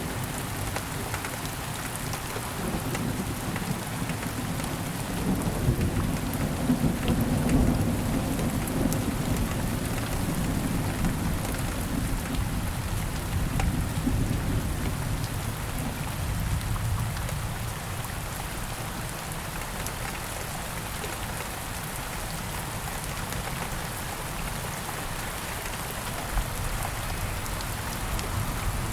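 Steady rain falling, with a long low rumble of thunder that builds at the start, is loudest about seven or eight seconds in, and fades out by about eighteen seconds.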